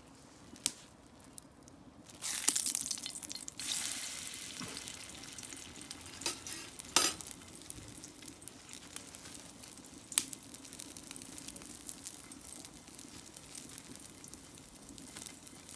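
Food frying in a hot pan: a loud sizzle starts about two seconds in and surges again a second and a half later, then settles to a steady sizzle. A few sharp clicks stand out over it.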